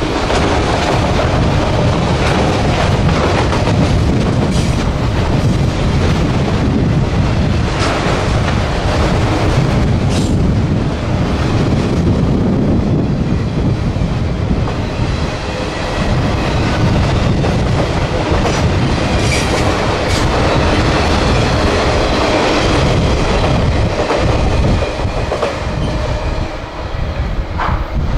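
Freight train cars rolling past a grade crossing: a steady, loud rumble of wheels on rail with occasional sharp clicks and clanks.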